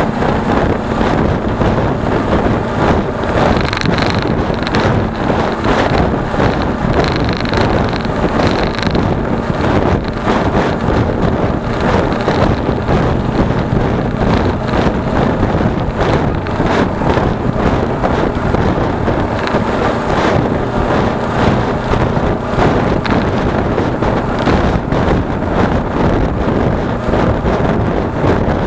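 Steady wind rushing over an action camera's microphone at road speed, with the steady running note of a Suzuki V-Strom 250's parallel-twin engine underneath.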